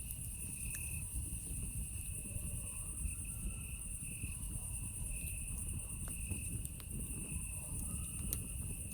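Campfire crackling with scattered sharp pops over a low rush of flames, under a steady high insect chorus and a second, lower insect trill that comes and goes in short stretches.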